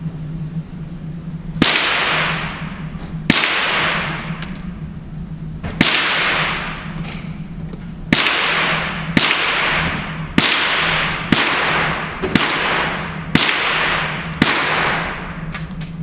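About ten gunshots fired in a string, each with a long fading tail. The first few come about two seconds apart, the rest about one a second.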